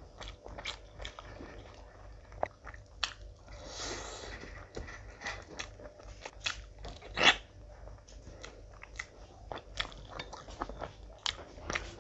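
Close-miked eating sounds of a person chewing a mouthful of rice and curry: wet chewing with frequent lip smacks and mouth clicks, the loudest a sharp smack about seven seconds in.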